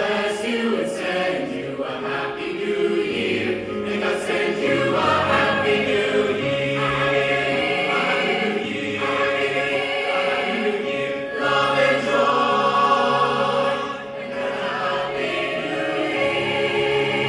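A school choir singing in several parts, mostly held chords over a steady low note.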